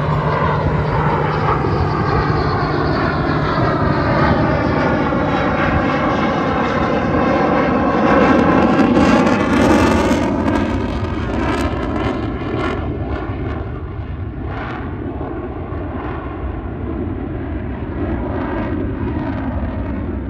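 Aircraft flying low past overhead, its engine noise swelling to a peak about halfway through and then easing off.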